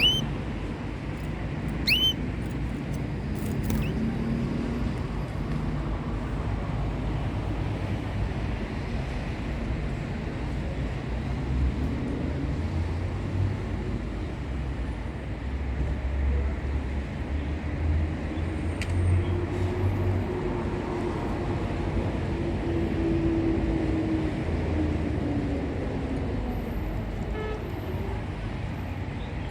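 Steady low rumble of road traffic, with a vehicle passing in the second half as a hum that rises and then falls.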